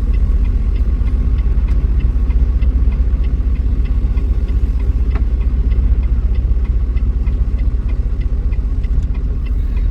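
Truck engine idling with a steady low rumble, and a faint regular ticking on top.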